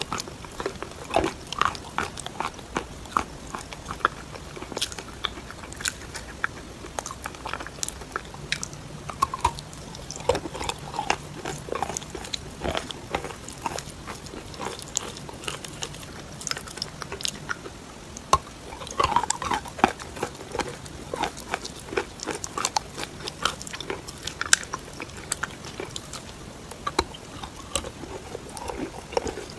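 A person biting and chewing chalk with clay paste: a long run of irregular, sharp crunches and cracks.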